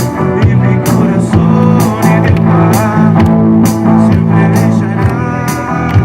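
Live band playing a rock song, with instruments holding notes over a steady drum beat.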